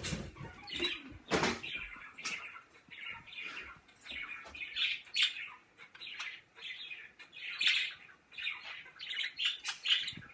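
Pet birds calling in a rapid string of short chirps, several each second, with a louder burst about a second and a half in.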